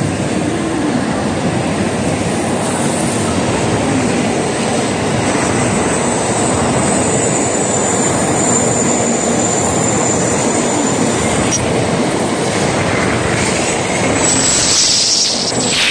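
N700A Shinkansen train pulling out of the station, its cars running past close by with a steady rushing rumble, a thin high whine through the middle and a brief hiss near the end.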